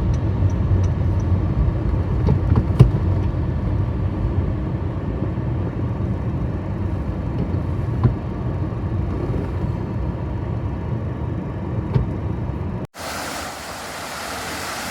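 Car driving, heard from inside the cabin: a steady low road rumble with a few sharp knocks, the loudest about three seconds in. Near the end it cuts off abruptly to a quieter, steady outdoor hiss.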